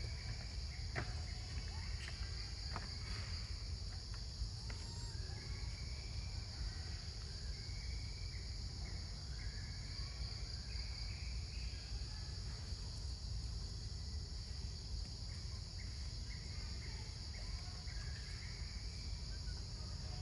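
Steady high-pitched drone of insects, with scattered short chirps and a low rumble underneath. A few sharp clicks come in the first few seconds.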